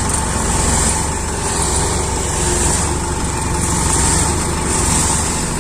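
Isuzu Elf dump truck's diesel engine running steadily.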